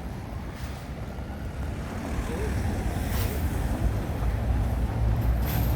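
Wind buffeting the microphone as a low rumble, over general city street noise.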